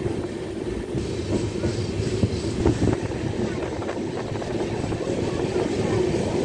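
Passenger train of LHB coaches running, heard from an open coach door: a steady rolling rumble of wheels on rail, with a few faint clicks over rail joints near the middle.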